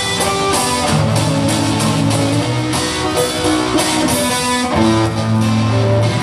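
Live instrumental guitar music: strummed guitar chords over sustained low bass notes that change about once a second, with no singing.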